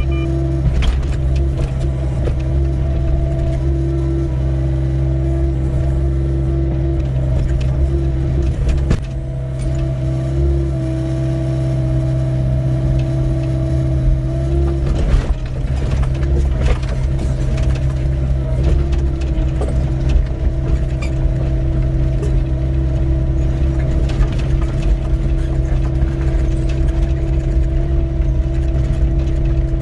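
Doosan 55W wheeled excavator's diesel engine running steadily under load with a steady hydraulic whine, while the bucket scrapes and knocks against stony soil, giving frequent short knocks and clicks.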